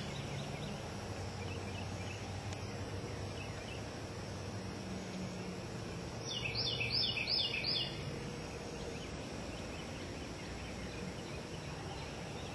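A bird singing a quick run of about six bright repeated notes, a little over six seconds in, over a steady hum of outdoor background noise.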